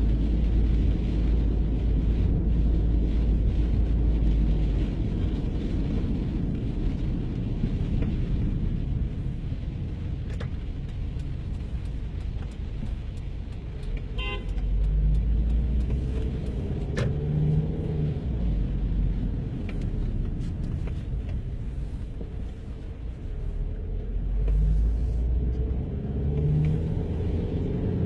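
Low rumble of passing cars and engines, swelling and fading as vehicles go by.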